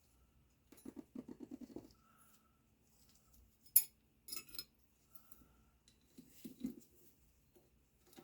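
Small metal parts and hand tools being handled: a quick run of clicks about a second in, a single sharp metallic click near the middle with a few clinks after it, and more clicks near the end.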